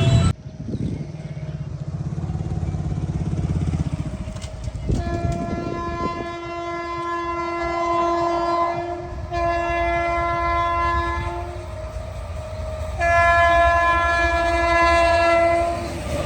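Train horn sounding three long multi-tone blasts, the first starting about five seconds in, over the low rumble of a passing train.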